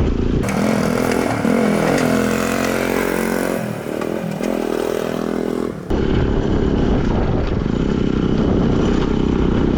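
Motorcycle riding along, its engine running under heavy wind rumble on the microphone. From about half a second in until about six seconds in, the sound cuts to a clearer recording in which the engine's pitch rises and falls.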